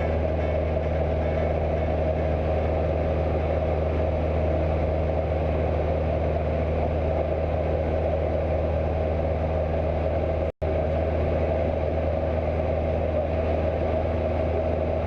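Cessna 172's single piston engine and propeller droning steadily, with a brief drop-out about ten and a half seconds in.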